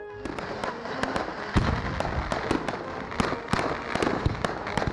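Aerial fireworks bursting: a dense run of sharp bangs and crackles, the loudest bang about a second and a half in.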